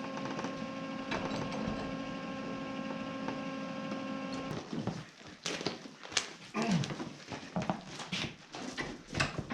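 Steady electrical hum of a 110 V wire-feed welder, which stops about four and a half seconds in. After it comes a run of irregular clicks and knocks.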